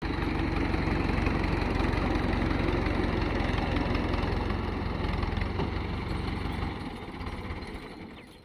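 A diesel tractor engine running with a steady low pulsing beat. Near the end the beat slows and the sound dies away, as when the engine is switched off.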